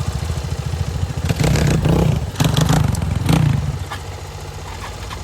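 Enduro motorcycle engine running, revved in a few short blips, then settling back to a steady idle about four seconds in.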